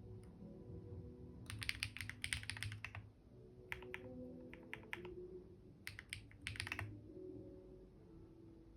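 Computer keyboard typing in short spurts: a quick run of keystrokes, then a few single taps, then another quick run, over soft background music.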